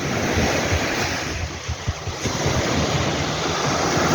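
Sea waves breaking and washing up a beach, a steady rush of surf that dips briefly and swells again about two seconds in, with wind buffeting the microphone.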